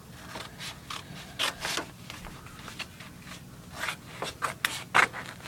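Scissors cutting a half circle out of a folder: an irregular run of short snips and rustles of the cut material.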